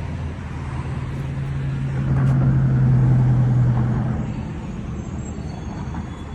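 A motor vehicle driving past, its low engine drone swelling to a peak about three seconds in and then fading away, over steady low traffic rumble.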